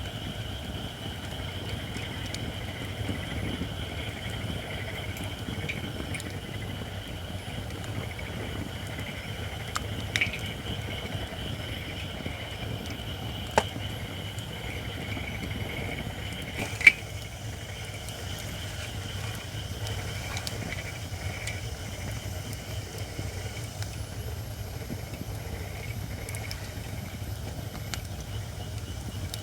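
Japanese white oak (shirakashi) logs burning in a campfire, crackling, with a few sharp pops near the middle, the last one loudest. Underneath runs a steady hiss from the not-yet-dry wood.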